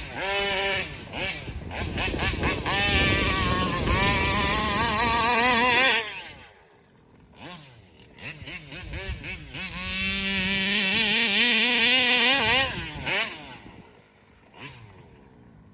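Taylor 35cc reed-valve two-stroke engine in an RC car revving hard, its pitch wavering up and down as the throttle is worked. It drops away about six seconds in, revs up again around ten seconds, then fades toward the end.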